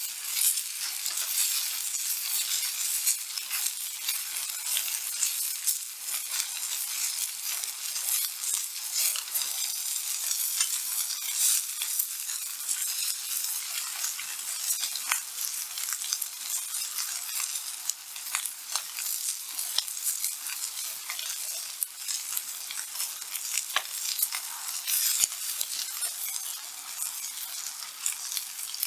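Wagyu beef steak sizzling on a 4.5 mm black-skin steel griddle plate over a wood fire: a steady hiss with many small crackling pops.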